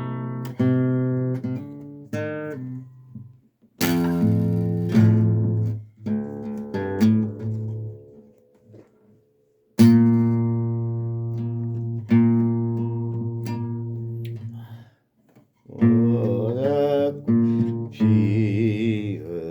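Acoustic guitar strummed in chords, each left to ring and die away, with two brief pauses. Near the end a man's voice begins singing over the guitar.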